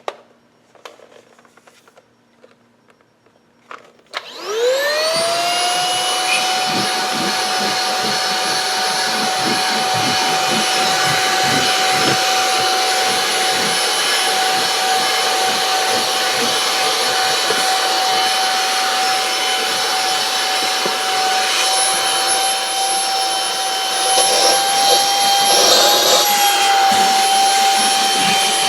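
Aspiron cordless stick vacuum's 250 W brushless motor switched on about four seconds in, spinning up with a quick rising whine, then running steadily with a high whine and rushing suction while it picks up crumbs. It gets louder and rougher for a couple of seconds near the end.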